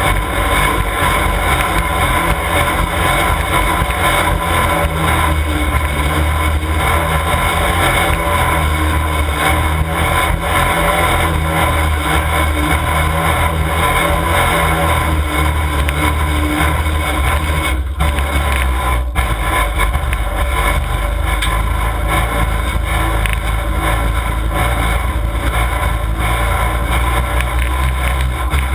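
Demolition derby cars' engines running loudly in a steady, unbroken drone.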